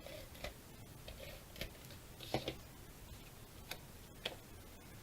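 A few scattered light taps and clicks of cardstock layers being set in place and pressed onto a card base on the work surface.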